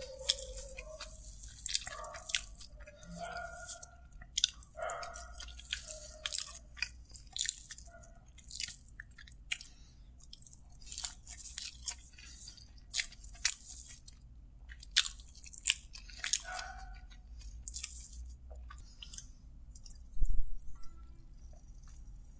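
Close-miked chewing of kottu roti eaten by hand, with frequent short wet mouth clicks and smacks. A single louder knock comes near the end.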